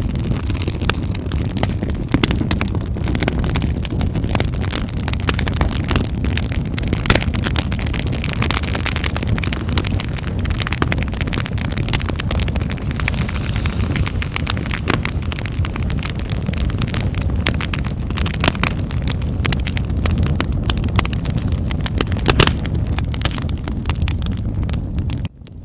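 Wood fire crackling in a fireplace: a steady low rumble of burning flames with frequent sharp pops and snaps. The sound cuts out abruptly for a moment near the end.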